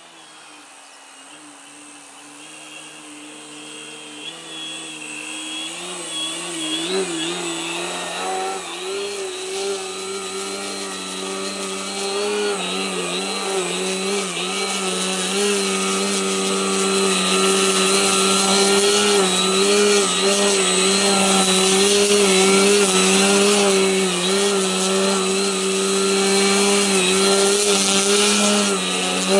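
Electric motor and propeller of an Extra 50 ARF radio-controlled aerobatic plane hovering, a steady pitched drone whose pitch wavers slightly as the throttle is worked to hold the hover. It grows louder through the first two-thirds and then holds.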